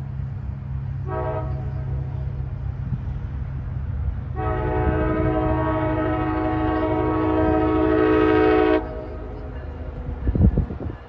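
An MBTA commuter rail train's multi-tone air horn gives a short blast about a second in, then a long blast from about four to nine seconds, over the steady low rumble of the diesel train. A few loud knocks come near the end.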